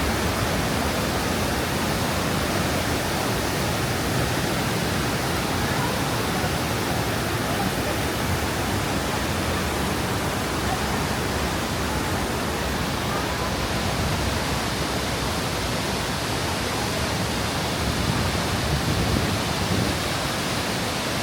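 Waterfall: the steady rush of falling water, a dense, even noise with no breaks.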